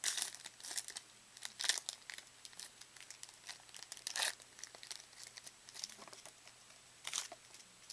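Trading card pack wrapper torn open and crinkled by hand, in irregular bursts of rustling, the loudest about four seconds in and again near the end.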